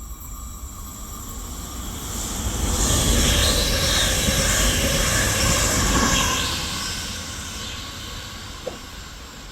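A train passing by. The rumble and rail noise swell to their loudest from about three to six seconds in, then fade away.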